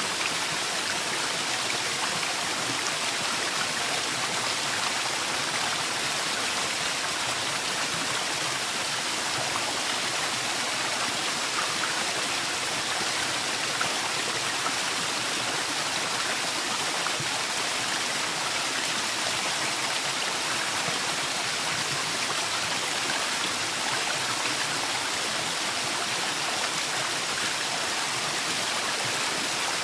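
Waterfall, a steady, unbroken rush of falling water, strongest in the upper range.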